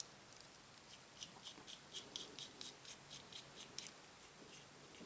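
Faint run of light, quick clicks, about four or five a second, from small metal parts and a screwdriver being worked by hand while an RC car's shock-absorber piston is fitted.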